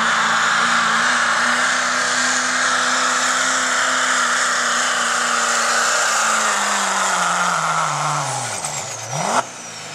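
Diesel pickup truck engine held at full throttle while pulling the sled, with a loud hiss of exhaust and intake. About seven seconds in the revs fall off and a high whistle winds down as the pull ends. Near the end there is one quick rev blip.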